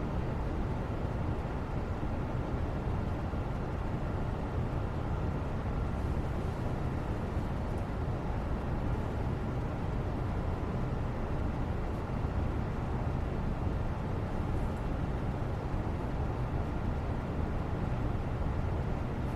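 Steady, even background noise, heaviest in a low rumble, with no separate sounds standing out.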